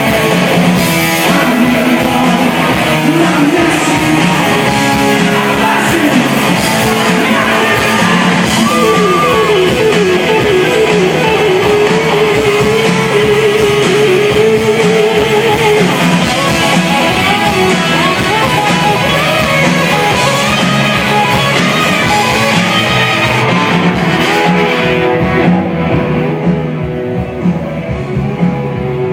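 Live rock band playing, with electric guitars carrying the melody and a singer's voice over the band. The music is loud and steady, easing a little near the end.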